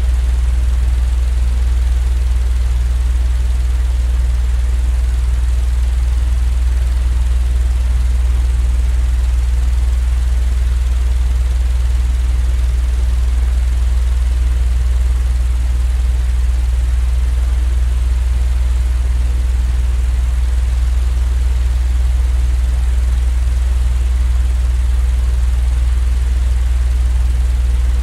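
Steady white-noise sleep sound: a strong, unchanging low hum and rumble under an even hiss, with no rhythm or variation.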